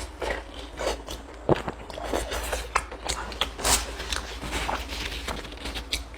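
Close-miked eating sounds: irregular wet clicks and crunchy crackles of chewing, over a steady low hum.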